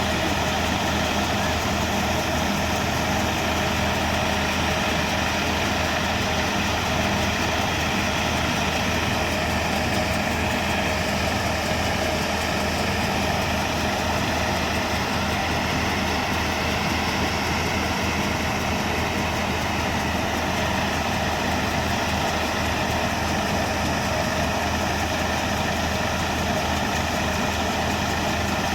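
Tractor engine running steadily under load, driving a threshing machine; an even, unbroken drone with the thresher's whir over it.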